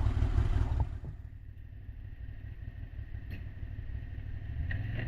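Off-road machine's engine running with a low rumble, louder for about the first second and then dropping back to a quieter, steady idle, with a few faint clicks.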